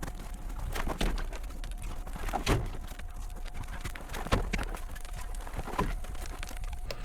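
A series of irregular knocks and thuds, about one a second, over a faint steady hum.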